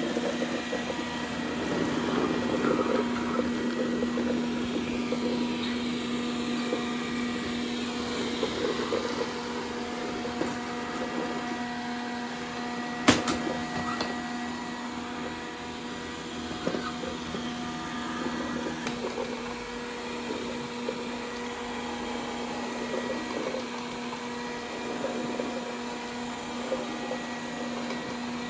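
Dreame D10 robot vacuum running its cleaning cycle, a steady motor and fan hum with several constant tones, while it picks up water beads. Irregular short crackles come mostly in the first half, and there is one sharp click about 13 seconds in.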